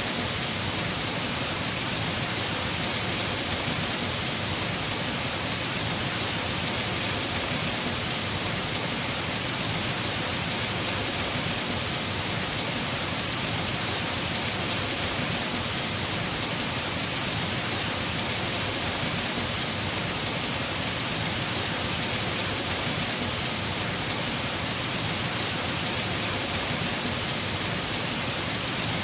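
Heavy rain falling steadily on a house roof, an even, unbroken hiss of drops.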